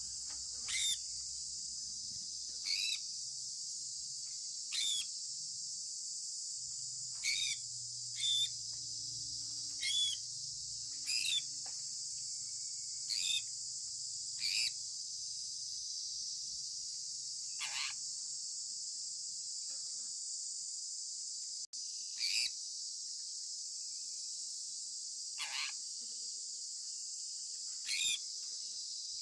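Sun conure parrot giving short, sharp chirps, one every one to three seconds, with a few seconds' pause in the middle. Underneath runs a steady high-pitched hiss.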